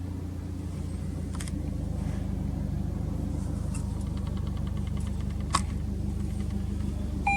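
Subaru Impreza WRX STI (GRB) turbocharged 2.0-litre flat-four engine idling steadily, with a couple of faint clicks.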